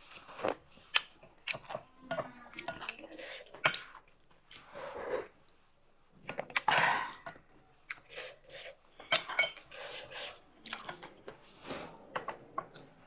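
Eating utensils clinking and scraping against a bowl and plate during a meal of noodle soup and dumplings: an irregular string of sharp clicks, with a couple of longer, noisier sounds about five and seven seconds in.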